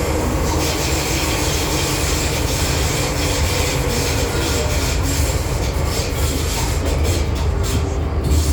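MTR M-Train electric multiple unit heard from inside the car as it runs through a tunnel: a steady loud rumble of wheels and running gear with a high hiss. Clicks and rattles build up over the last couple of seconds.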